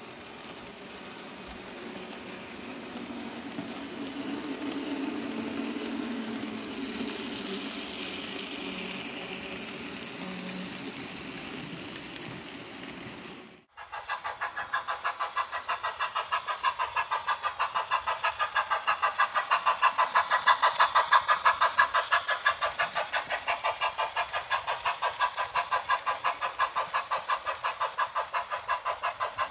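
Model trains running on a layout: first a steady rolling and motor noise that swells and then eases off. After a sudden cut about halfway, a model locomotive gives an even, engine-like chugging of about three beats a second.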